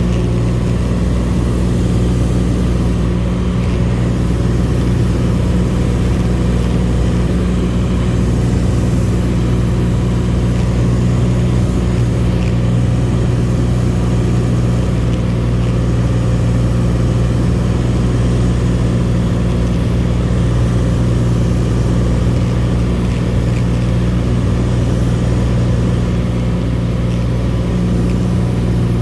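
Cessna 182 Skylane's single piston engine and propeller droning steadily in flight, a constant low hum with no change in pitch.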